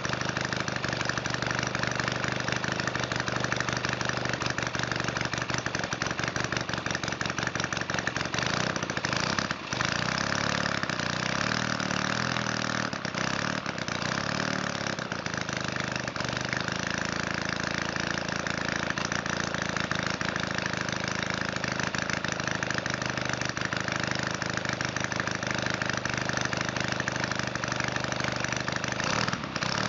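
Valach 170cc two-stroke engine running steadily, slobbering rich on its needle settings and a 25:1 oil mix. There is a brief dip about ten seconds in, and its note wavers for a few seconds after.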